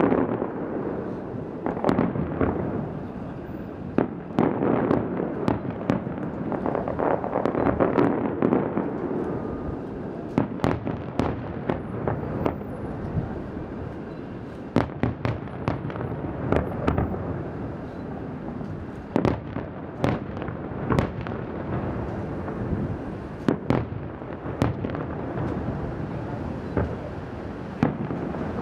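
Aerial fireworks shells bursting in quick succession: a dense run of overlapping booms and crackle for the first several seconds, then sharper, more separate bangs.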